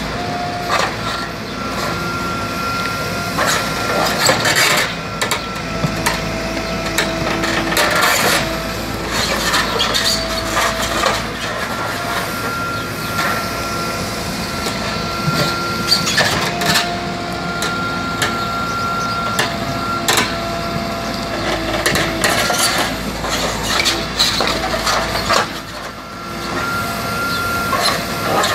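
Hydraulic digger working, its engine running with a whine that rises in and drops out every few seconds as the hydraulics are worked, and repeated clanks and knocks of the bucket against rubble.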